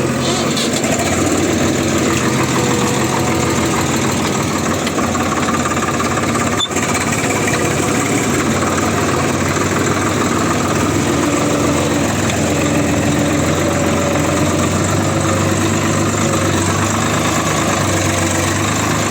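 Heavy diesel engine running steadily and loudly, from the JCB 3DX backhoe or the Swaraj 744FE tractor at work in the mud.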